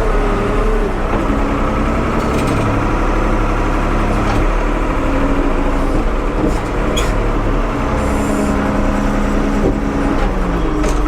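1975 Ford 550 backhoe engine running steadily. Its pitch dips briefly near the start and again near the end, with a few short knocks in between.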